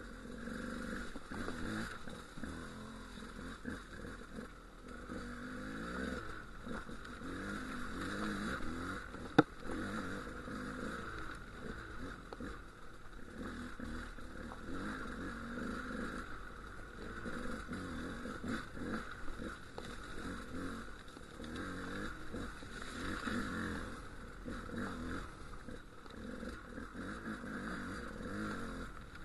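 Dual sport motorcycle engine running at low speed on a rough trail, its revs rising and falling, with one sharp knock about nine seconds in.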